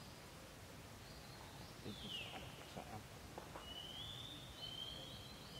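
Faint outdoor ambience with thin, high bird chirps: a short falling chirp about two seconds in and a longer drawn-out chirp from about four seconds on, with a few faint ticks in between.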